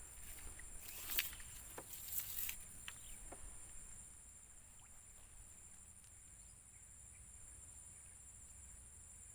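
Steady high-pitched insect chorus, with a few sharp clicks and a couple of short bursts of rustling in the first few seconds, the loudest about a second and two seconds in.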